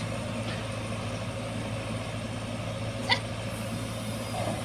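Diesel engine of heavy earthmoving machinery running steadily, with one short high sound about three seconds in.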